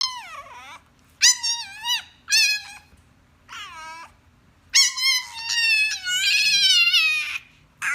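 French bulldog puppy whining in a run of five high, falling cries, the last one long and drawn out, asking to be let out.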